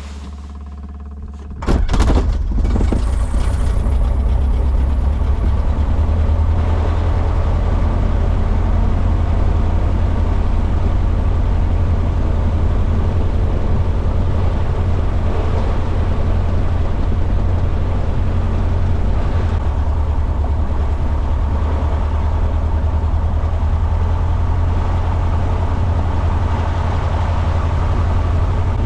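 Jodel DR1050's piston aero engine in a ground run, jumping suddenly louder about two seconds in and then running steadily at high power. This is a run-up to clear a spark plug that may have fouled while the engine ran without compression.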